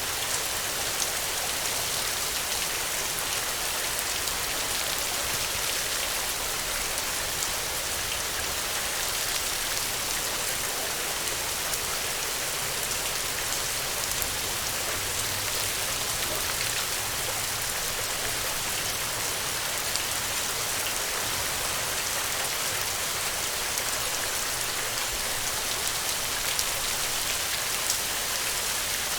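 Steady rain falling on the ground, a dense hiss of drops with many small individual drop impacts.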